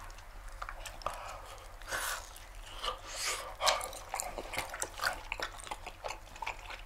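Two people chewing soft, sticky rice cakes, with scattered wet clicking mouth sounds.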